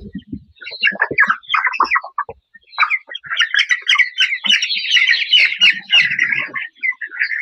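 A flock of chickens calling and chirping together: scattered short calls at first, thickening into a dense chorus from about three seconds in.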